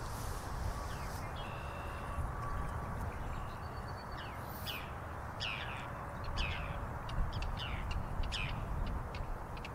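Small birds calling in the background: a few thin whistled notes, then from about halfway a run of quick chirps that fall in pitch, over a steady low rumble.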